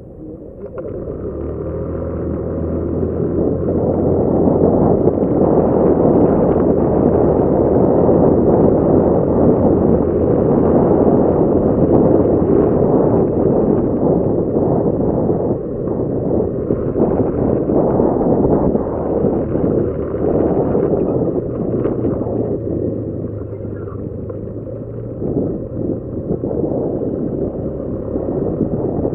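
Motorcycle engine running under way, with wind noise over the microphone. It grows louder over the first few seconds, then holds steady.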